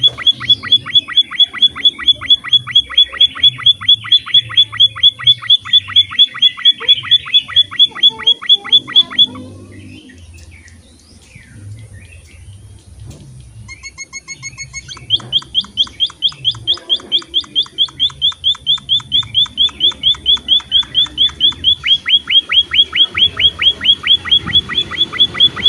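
A small finch of the munia kind (emprit) calling in a fast, even series of sharp chirps, about six a second, played for training caged birds. The series breaks off about nine seconds in, leaving a quieter stretch with a few faint calls, and starts again about fifteen seconds in.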